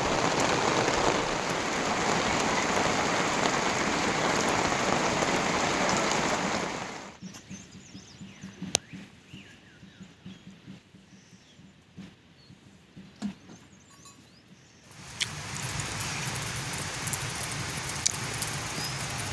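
Rain falling in a steady, dense hiss. About seven seconds in, it cuts off abruptly to a much quieter stretch with scattered drips and taps. A softer, steady rain returns about eight seconds later.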